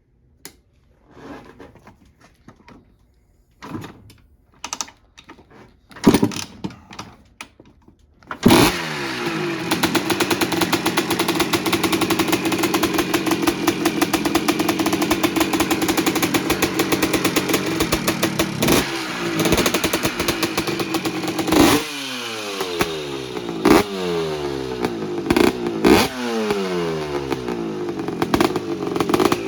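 Honda TRX250R two-stroke single fitted with a 310 big-bore kit, first start after a complete engine rebuild: a few short knocks and rattles, then the engine catches about a third of the way in and runs. In the second half it is blipped several times, the revs falling back after each blip.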